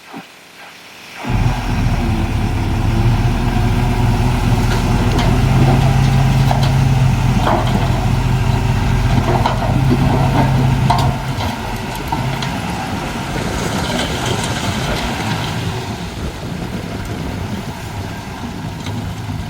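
Diesel engine of heavy earthmoving machinery running steadily, with scattered clanks on top. The sound cuts in abruptly about a second in and eases somewhat around eleven seconds in.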